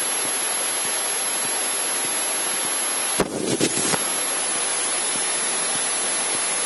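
Steady hiss from the cockpit's headset and intercom audio in a Cessna 152, with a faint high-pitched tone on top; a brief louder sound breaks in about three seconds in.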